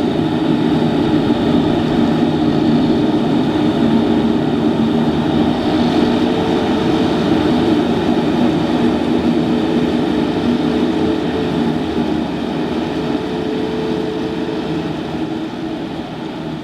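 Tractor diesel engine and farm machinery running steadily, a continuous engine drone that eases off slightly toward the end.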